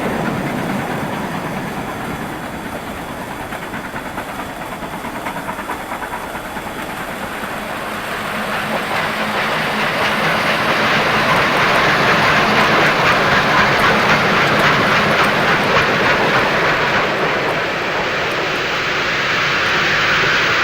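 00 gauge model steam locomotive running along the track: a steady rushing rattle of wheels on rail with fine rapid clicking, growing louder about halfway through as it draws nearer.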